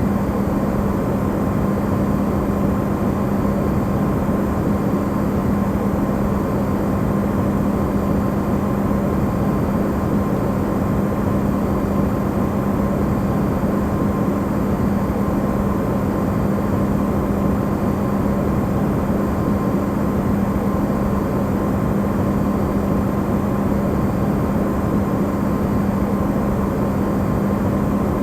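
Electrolux refrigerator running, recorded close up and amplified: a steady, even rush of noise with a constant low hum through it.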